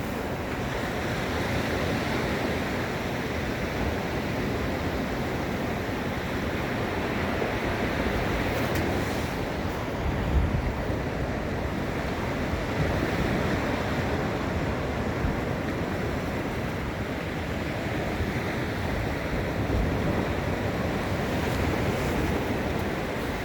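Ocean waves breaking and washing on a sandy beach: a steady surf wash that swells and eases, with wind buffeting the microphone and a brief low thump about ten seconds in.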